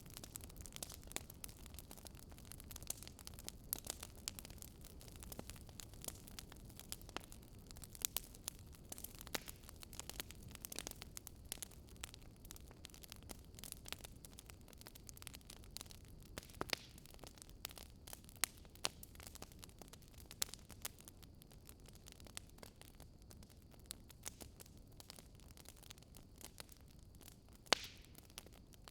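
Wood fire crackling: irregular sharp pops and snaps, a few louder ones near the end, over a steady low hiss and rumble.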